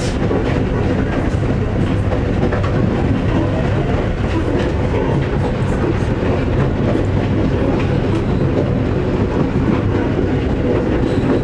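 PeruRail passenger train running along the track, heard from inside the carriage: a steady rumble with scattered light clicks.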